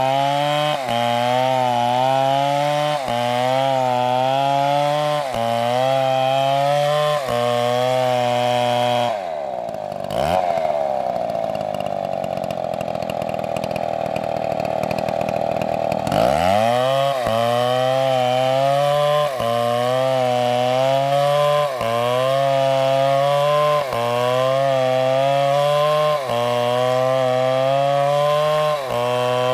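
Large MS720 chainsaw cutting wood at high revs, its engine pitch rising and dipping about once a second as the saw works in the cut. About nine seconds in it falls off to a lower, steady running for about six seconds, then revs back up and cuts on with the same rhythm.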